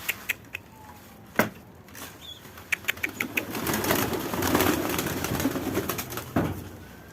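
Pigeon flapping its wings among sharp clicks and knocks, with a dense flurry of flapping from about three seconds in to about six seconds, and a single knock just after.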